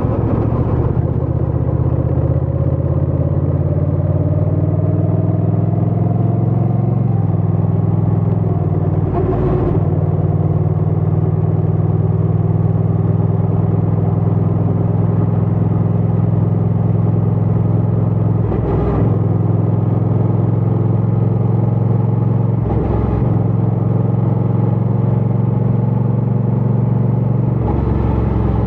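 Honda Rebel 1100 DCT's parallel-twin engine and exhaust running under way, its pitch rising gently over the first several seconds. The steady note is broken briefly about four times.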